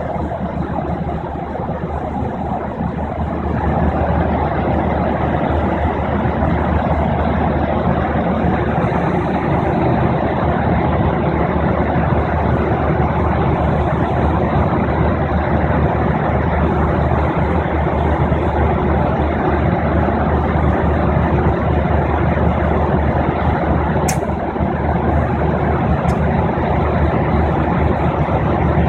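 Steady rushing cabin noise of a jet airliner in flight: engine and airflow noise heard from a passenger seat. Two short faint clicks come near the end.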